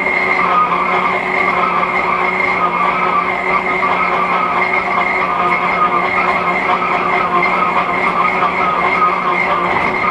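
1941 Hendey flat-belt-drive lathe taking a heavy roughing cut with a high-speed-steel chip-breaker tool. The cut makes a steady loud hiss, with a steady whine from the machine running under load.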